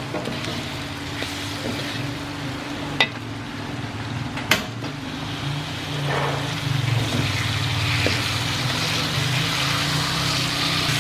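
Raw chicken pieces sizzling in hot oil and spice paste in a metal wok as a metal spatula stirs and scrapes; two sharp clanks of the spatula on the wok come near the middle, and the sizzle grows louder toward the end. A steady low hum runs underneath.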